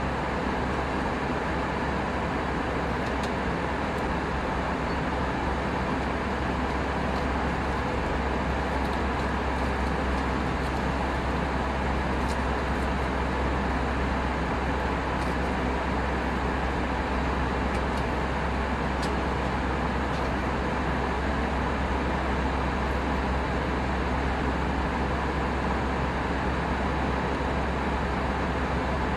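Steady cabin noise of an Airbus A319 in flight: an even rush of airflow and engine noise with a strong low rumble, unchanging throughout.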